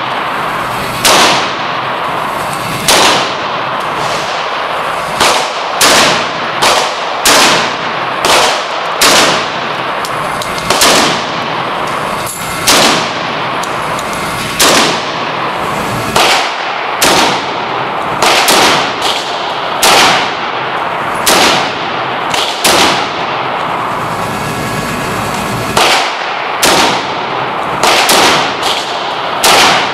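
Firearms shooting at an indoor range: a long string of about two dozen single gunshots, mostly a second or so apart with some quicker pairs. Each shot has a short echoing tail.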